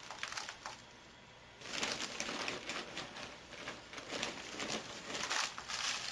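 Dry rustling and crinkling of loose bedding litter being spread in a bird cage's bottom tray, with a short lull about a second in.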